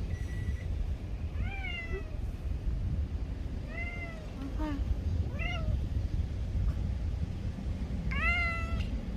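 A stray cat meowing about five times, each meow a short call that rises and falls, the last one near the end the loudest.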